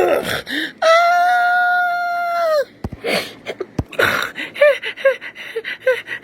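A high voice lets out one long, held scream lasting about two seconds. About four seconds in it breaks into short, quick whimpering gasps, two or three a second.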